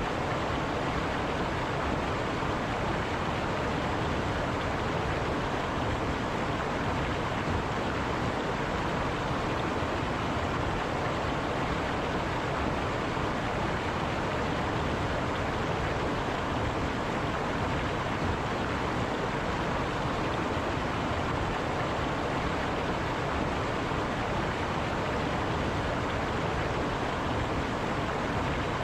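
A river flowing over rocks, a steady even rush of water.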